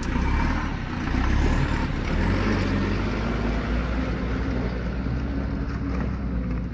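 Heavy vehicle engine running, a loud steady low drone with a broad noise of movement over it; it starts abruptly.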